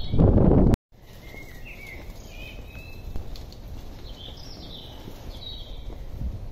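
Birds singing: two short phrases of quick chirps and slides a couple of seconds apart, over faint outdoor background noise. A loud rush of noise in the first second cuts off suddenly.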